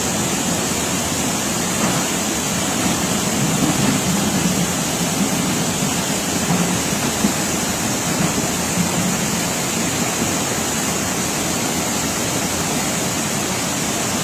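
Steady rushing noise of water, as of heavy rain or floodwater running, with no break.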